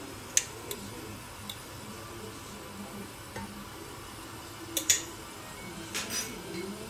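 A few sharp, separate clicks or knocks, the loudest about half a second in and again near five seconds, over a faint steady background.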